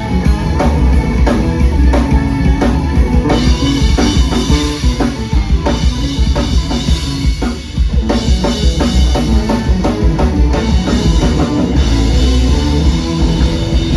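Rock band playing live, a drum kit driving a steady beat with bass drum and snare hits under the rest of the band.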